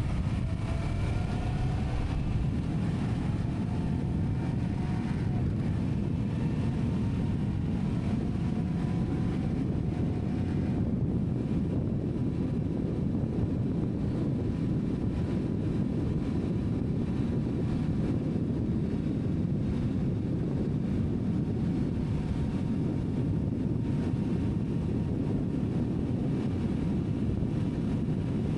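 Steady low rumbling noise of a moving vehicle, with faint rising and falling engine tones in the first several seconds.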